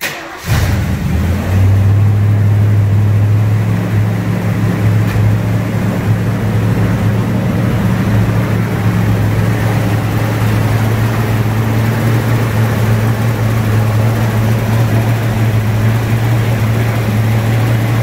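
1965 Ford Mustang engine starting up: it catches within about half a second, then settles to a steady idle about a second and a half in.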